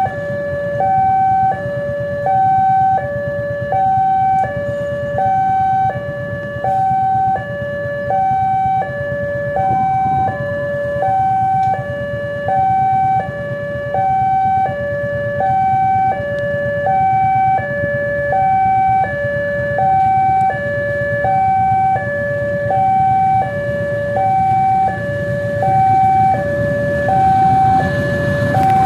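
Railway level-crossing warning alarm sounding a steady two-tone high-low pattern, each tone held about a second, over a low rumble.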